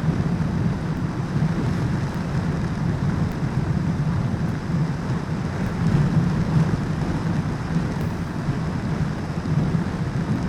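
Motorcycle riding at steady speed: a constant low engine and road drone mixed with wind rushing over the microphone.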